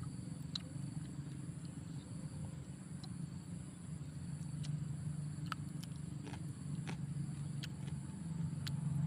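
Close-up eating sounds: chewing fried sparrow meat, with irregular sharp crunches of small bones, over a steady low hum.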